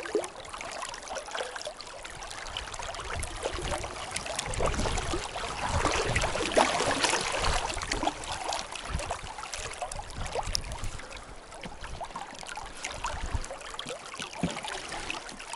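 Shallow river current running and gurgling, with many small splashes, swelling louder for a few seconds in the middle.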